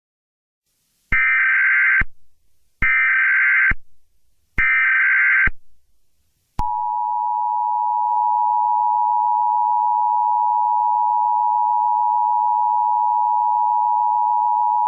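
Emergency Alert System signal: three short bursts of SAME digital header tones, each just under a second long, then the steady two-tone attention signal (853 and 960 Hz), which holds for about eight seconds and cuts off abruptly.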